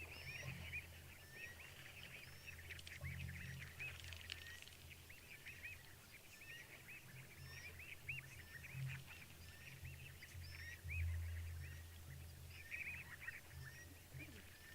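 A dense night chorus of frogs calling over and over, with small rising chirps among the calls. Deep low rumbles swell under it several times, loudest a little past the middle.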